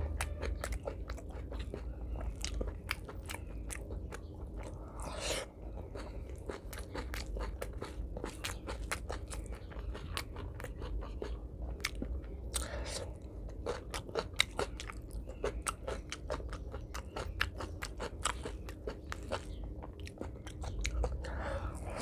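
Close-up chewing and mouth sounds of a person eating rice and curry by hand: a steady stream of small wet clicks and crunches.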